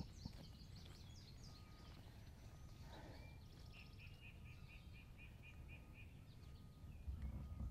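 Faint songbirds calling: scattered high chirps in the first second, then a quick run of about ten repeated chirps, some four a second, a few seconds in. A soft low rumble underlies it and swells near the end.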